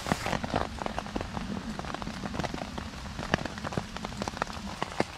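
Rain falling on wet leaf litter: a steady hiss with many irregular sharp ticks of single drops.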